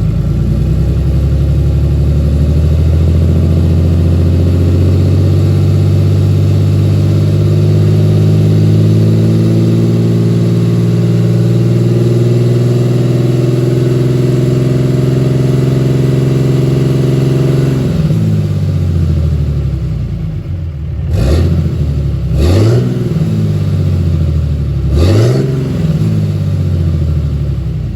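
Pickup truck engine running through shotgun exhaust stacks: a long pull with the pitch climbing slowly and then holding, backing off about eighteen seconds in, followed by three quick revs near the end.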